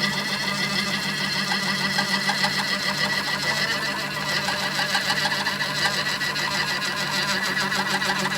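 Metalworking machine tool running steadily, its motor and drive giving a constant hum with a fast, even mechanical rattle.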